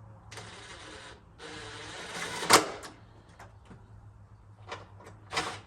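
Hands-on work fitting a headlight bracket: two rasping scrapes, about a second and a second and a half long, the second ending in a sharp loud clack, then a few light clicks and knocks as the bracket is lined up and set in place.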